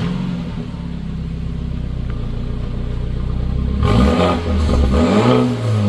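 BMW N26 2.0-litre turbocharged four-cylinder, with its exhaust resonator removed, idling steadily just after starting, then revved up and down a few times from about four seconds in.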